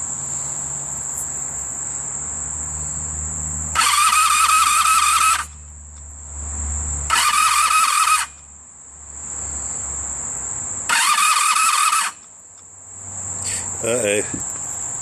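Electric starter of a 1985 Honda Sabre V65 (VF1100) cranking the engine in three short bursts, the first about a second and a half and the next two about a second each, without the engine catching. Crickets chirp steadily throughout.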